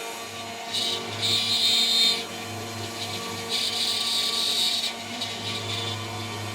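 CNC router spindle running steadily with a 3 mm three-flute end mill, which bites into the workpiece twice with a high-pitched cutting noise lasting about a second and a half each time.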